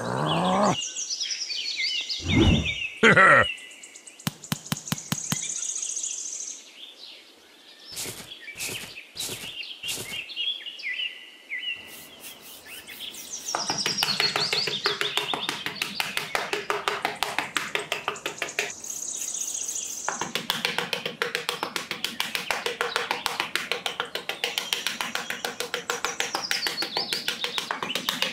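Small garden trowel scraping and patting sand in quick, repeated strokes, with bird chirps heard over it now and then. Sharp taps and scrapes come before it as a rock is worked into the sand.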